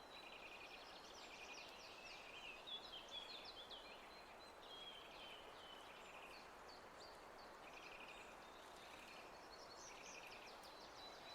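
Faint birdsong: many short chirps and quick trills from small birds, over a soft steady hiss.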